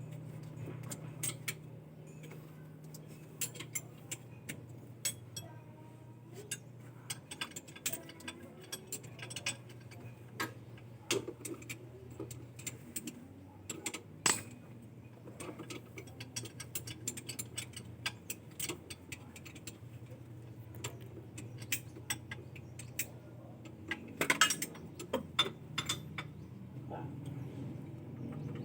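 Irregular clicks and clinks of metal hand tools working on an engine, over a steady low hum, with a louder flurry of clinks about 24 seconds in.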